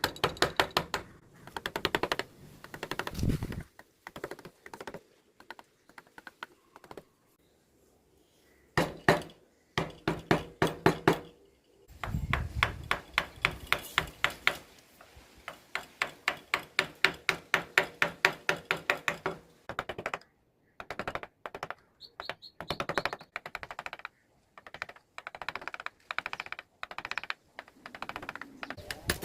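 Carving chisel tapped with a mallet into teak wood, in quick runs of sharp taps at about five a second with short pauses between runs.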